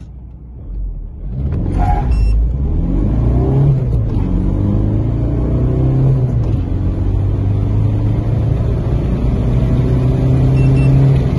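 Audi A3 1.9 TDI four-cylinder turbodiesel heard from inside the cabin, accelerating hard from a standstill at full throttle: the engine note climbs in pitch through each gear and breaks at the shifts. Short beeps sound about two seconds in and again near the end.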